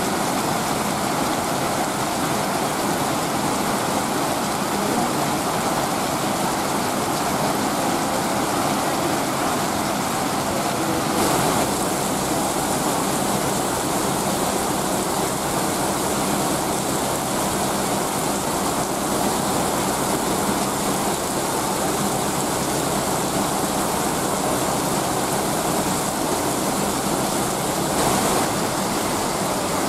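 Heavy rain pouring down steadily, a dense, even hiss. A low rumble joins in about eleven seconds in.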